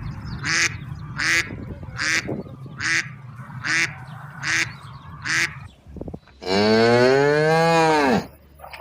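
About seven short honking bird calls, evenly spaced at roughly one every three quarters of a second, then a cow's single long moo, rising and falling in pitch, starting about six and a half seconds in.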